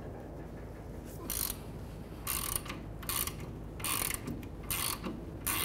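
Hand ratchet clicking in short bursts, roughly one every 0.8 seconds from about a second in, as it is swung back and forth to back out a 14 mm rear brake caliper bracket bolt.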